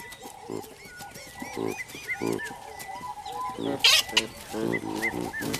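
Olive baboons grunting and calling in short pulsed bursts, with a loud, sharp call about four seconds in, over small birds chirping.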